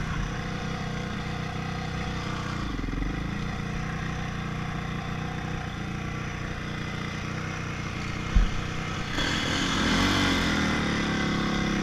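Honda CRF450 single-cylinder four-stroke dirt bike engine running steadily, with a short knock a little past eight seconds in. It then grows louder, its pitch rising and falling as the throttle is worked near the end.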